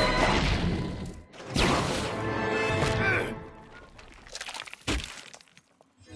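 Cartoon sound effects over the score: two loud rushing bursts of noise, the second fading out about three seconds in, then a single low thud near the end.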